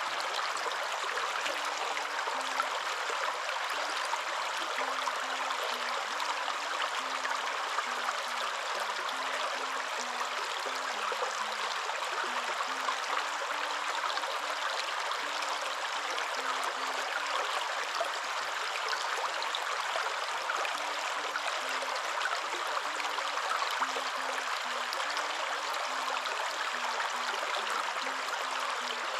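Waterfall: a steady, unbroken rush of falling water, an even hiss with no pauses or surges.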